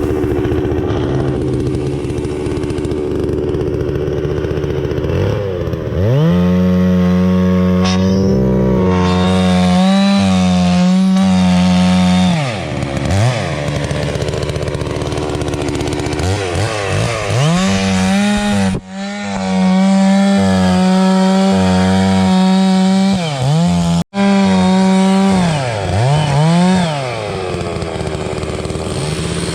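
Holzfforma two-stroke chainsaw idling, then revved up to full throttle in three long runs of several seconds each, as it cuts through logs. Between runs it drops back to idle.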